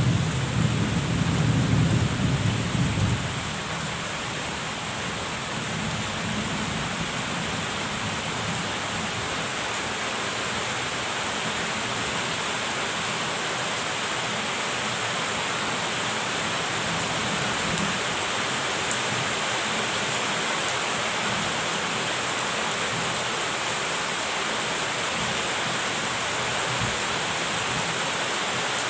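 Steady rain falling as an even hiss, with a low rumble of thunder that dies away about three seconds in.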